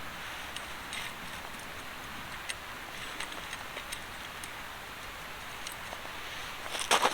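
Scattered faint ticks over a steady soft hiss, then near the end loud footsteps begin.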